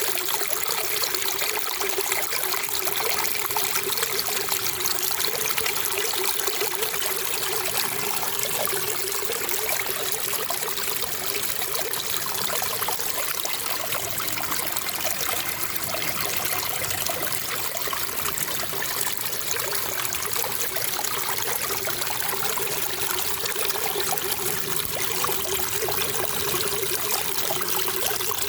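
Running water trickling steadily, an even continuous splashing with no pauses.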